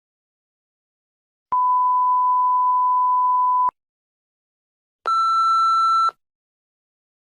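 A steady pure electronic bleep about two seconds long, like a TV censor bleep, then after a pause a shorter, buzzier beep about a second long at a slightly higher pitch.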